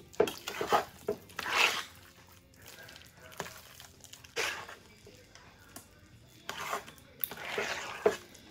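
Metal spoon stirring thick, creamy potato salad in a metal pot: irregular wet squelching strokes, with the spoon clicking and scraping against the pot's side.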